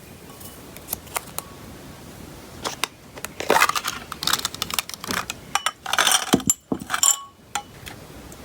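Small hard objects being handled: a string of sharp clicks and light clinks mixed with short bursts of rustling, busiest in the middle.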